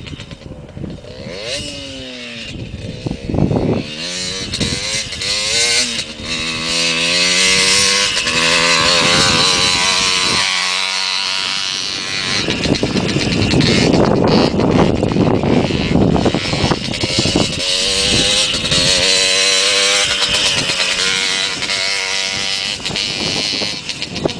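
Motocross bike engine revving hard, its pitch climbing and dropping again and again through gear changes and throttle bursts, with a brief lift-off about halfway through.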